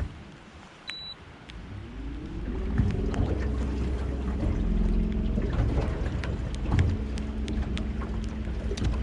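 A short electronic beep, then a boat motor spins up: its pitch and loudness climb for about a second and a half before it settles into a steady run under load against strong current.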